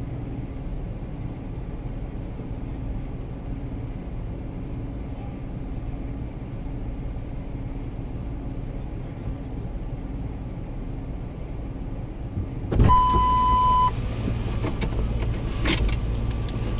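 Steady low rumble of a vehicle engine heard from inside the cab. About 13 seconds in, a two-way radio opens with a sudden burst and a one-second beep, followed by crackling clicks.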